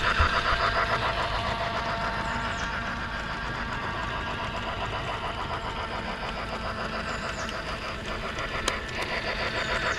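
Lionel model train locomotive running on its track, a steady rhythmic mechanical rattle of the motor and wheels, with a single sharp click near the end.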